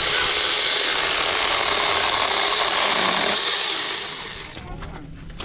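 Keelat 6-inch cordless electric mini chainsaw running and cutting through wood, a steady motor whine with chain noise. It winds down and stops about four and a half seconds in.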